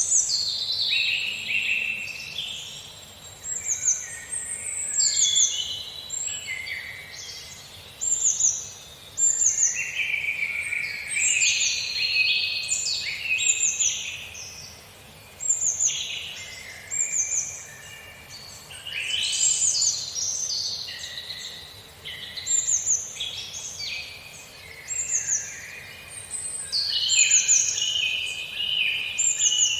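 Songbirds singing in a forest chorus: many overlapping phrases of high notes that slide downward, repeating every second or so.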